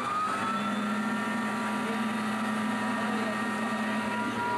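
Douglas DC-3's radial piston engine running at a steady speed just after coming up from its start: a loud, even drone with a thin high tone over it.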